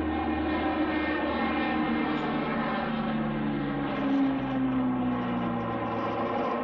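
Fixed-wing aircraft engine running loud and steady as the plane passes, its tones slowly falling in pitch.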